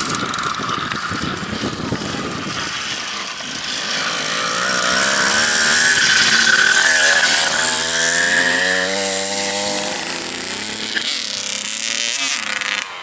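Two-stroke dirt bike engine revving as it rides. Its pitch climbs in several rises through the middle, it is loudest about six seconds in, and then it fades away.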